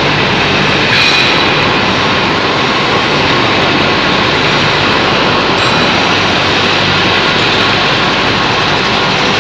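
Loud, steady rushing machine noise from industrial induction hardening equipment, even throughout with faint steady tones and no rhythm.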